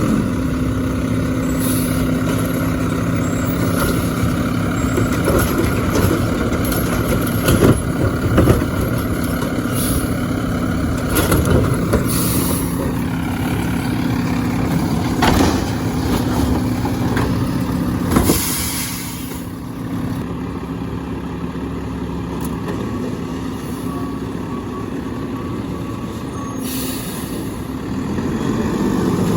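Garbage truck engine running steadily, with several clanks and knocks as cans are handled and a few short hisses of released air. The engine sound eases off about two-thirds of the way through and picks up again near the end.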